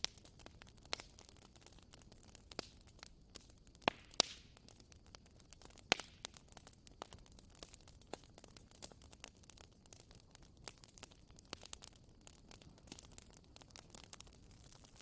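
Wood bonfire crackling: irregular sharp pops and snaps over a soft steady hiss, with a few louder pops about four and six seconds in.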